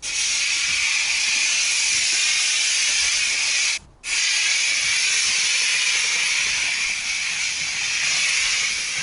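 Pressure washer water jet spraying with a steady, loud hiss, cutting out briefly about four seconds in and then resuming.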